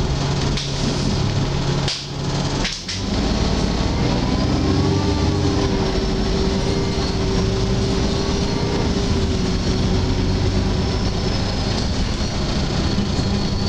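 Alexander Dennis Enviro 300 bus on the move, heard from inside the cabin: engine and road noise, with steady screeching tones setting in about four seconds in and holding on.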